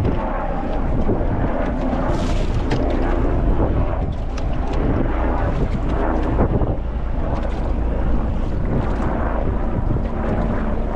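Strong wind buffeting the microphone on a small fishing boat rolling in choppy water, a steady rumble with occasional short splashes or knocks against the hull.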